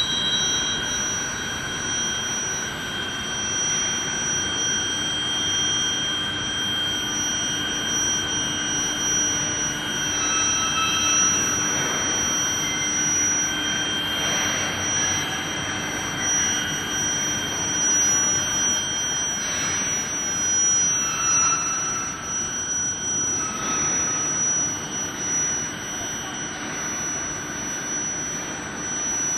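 Induction heating and hardening line for threaded rebar running: a steady high-pitched whine of several held tones over a constant machinery hiss.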